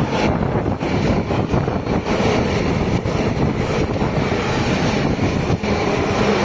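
A train passing close by with a steady rushing rumble of wheels on rail, and wind buffeting the microphone.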